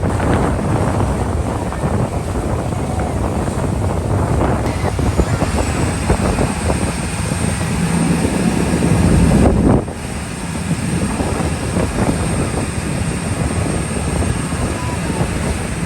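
A boat's engines running steadily under way, with wind buffeting the microphone.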